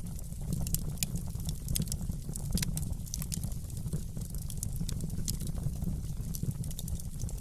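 Fireplace fire crackling: many irregular sharp pops and snaps over a steady low rumble of flames.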